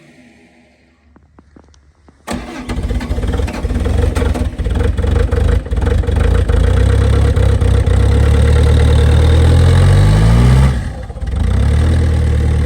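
Bobcat Toolcat 5600's diesel engine cold-started at 9°F: after a couple of quiet seconds with a few faint clicks, it cranks and catches suddenly, running unevenly at first. Its speed climbs, drops back briefly about ten seconds in, then settles to a steady idle.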